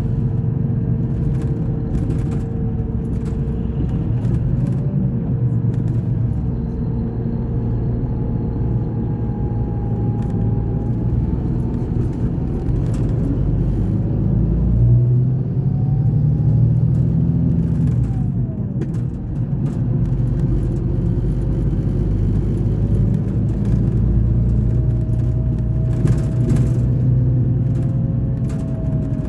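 Scania K420 bus engine running, a steady low rumble whose note rises and falls around halfway through, with occasional short clicks and rattles.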